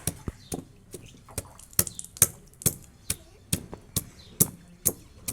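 Chopping in a kitchen: sharp, evenly spaced knocks, about two a second.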